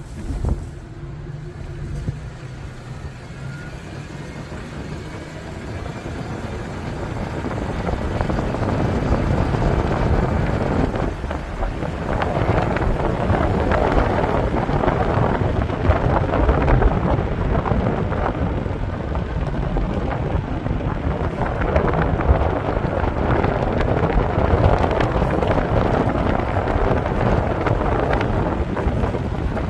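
A train rumbling past close by. It builds up over the first several seconds, then stays loud and steady.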